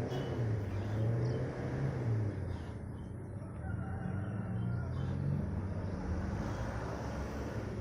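Outdoor ambience: a bird calling over a steady low engine rumble.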